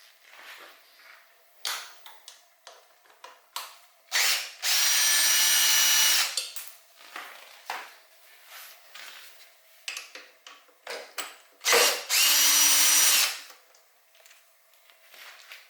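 A power drill spinning at a steady pitch in two bursts of about a second and a half each, one about five seconds in and one about twelve seconds in, while taking bolts out of a bike during a teardown. Short clicks and clinks of tools and parts come between the bursts.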